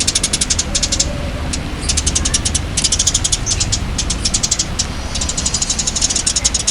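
A songbird's rapid chattering: runs of fast, high clicking notes, about a dozen a second, broken by short pauses, over a steady low hum.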